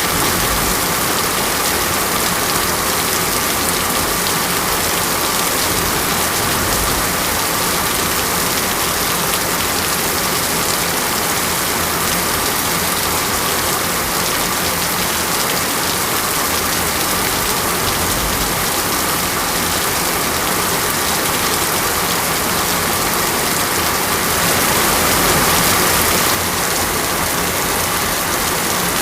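Steady rain falling, an even hiss of drops, briefly a little louder near the end before dropping back suddenly.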